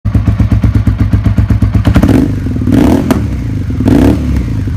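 Suzuki SV650's 645 cc V-twin engine running at a lumpy, pulsing idle, with two short throttle blips raising the revs around the middle.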